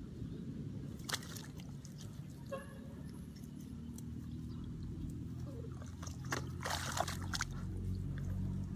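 Tractor engine running steadily, with water and mud sloshing and splashing several times over it, the loudest splashes near the end.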